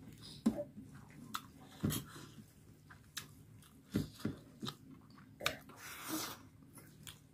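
Close-up mouth sounds of chewing chicken and rice: quiet, irregular wet clicks and smacks.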